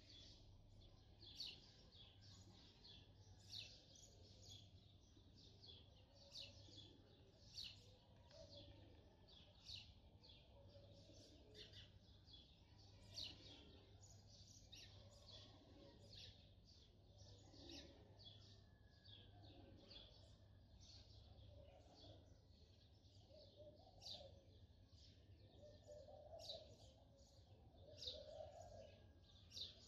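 Near silence with faint, rapid chirping of small birds scattered throughout, over a low steady hum.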